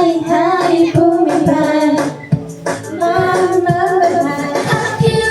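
A Mandarin pop song: a high female voice sings a melody over a steady beat, with a brief pause in the vocal line about two seconds in.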